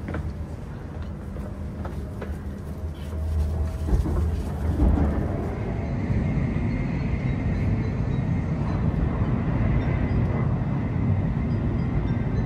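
Steady rumble of the coupled H5/E6 Shinkansen train running, heard from on board. It grows louder about four seconds in, with a couple of knocks, and from about six seconds a steady high tone sits above the rumble.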